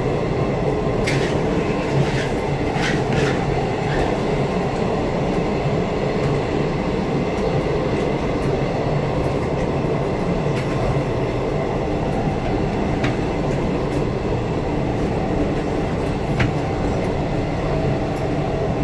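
Electric passenger train running at speed, heard from inside: a steady rumble of wheels on rail with a scattering of sharp clicks, several in the first few seconds.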